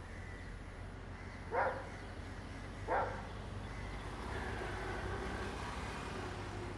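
A dog barking twice, about a second and a half apart, over a steady low engine hum.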